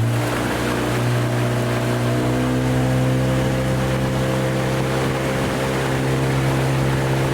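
An engine running steadily with a low hum, its pitch rising a little a couple of seconds in.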